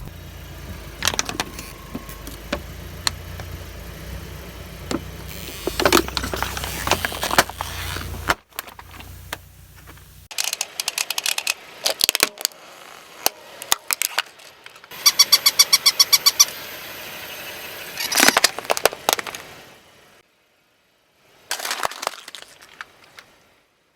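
A car's tyres roll slowly over objects and crush them, with the low rumble of the car under a series of cracks and crunches. About halfway through the rumble drops away, leaving separate bursts of crackling and crunching, including a fast, even run of clicks. There is a brief silent break a few seconds before the end.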